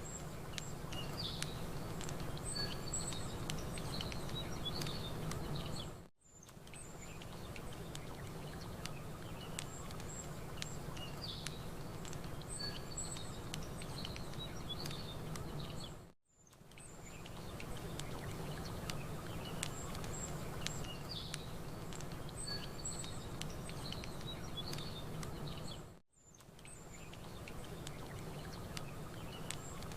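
Campfire crackling with small birds chirping over a steady background hiss. About every ten seconds the sound drops out for a moment and fades back in, the seam of a looped recording.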